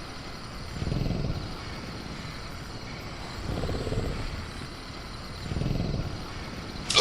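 Night jungle ambience: faint steady cricket chirring, with soft low rumbling swells about every two seconds.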